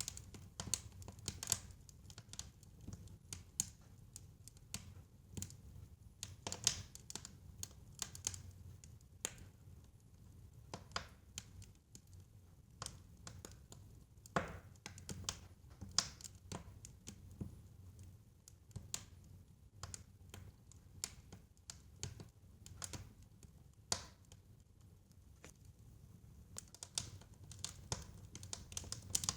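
Wood fire crackling in a fireplace: irregular sharp pops and snaps, several a second in flurries, over a low steady rumble of the flames.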